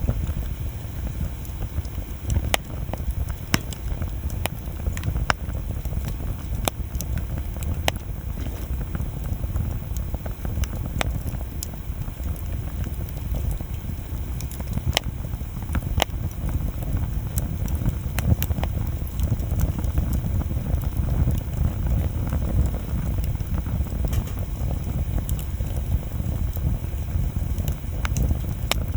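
Wood bonfire burning, with frequent sharp crackles and pops over a steady low rumble.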